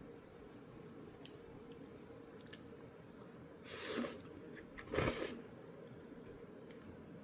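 Someone eating ramen: two short noisy bursts of slurping or breath at the mouth, about a second apart, over faint clicks of eating.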